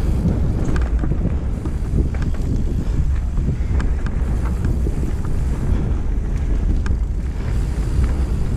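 Wind buffeting the microphone over the steady rumble of a mountain bike riding down a dirt trail, with scattered short clicks and rattles from the bike over rough ground.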